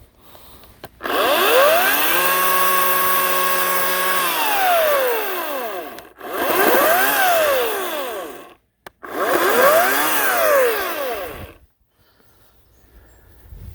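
Ryobi 18-inch electric chainsaw's motor revving three times. The first run climbs to speed, holds steady for a couple of seconds and winds down. Then come two short revs that rise to a peak and fall straight away.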